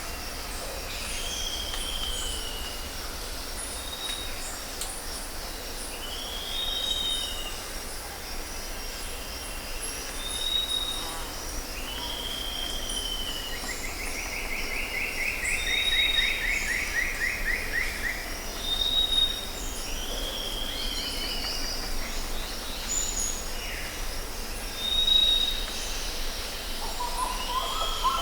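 Tropical forest ambience: several birds calling. One repeats a short arching whistle every few seconds, with brief high notes in between and a long rapid trill about halfway through, over a steady, shrill insect chorus.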